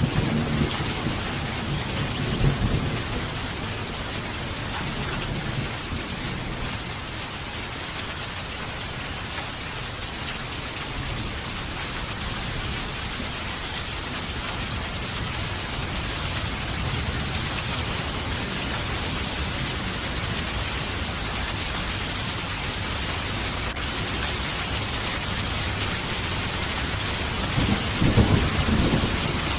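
Steady rain falling with rolling thunder: a low rumble dying away over the first few seconds and another swelling near the end.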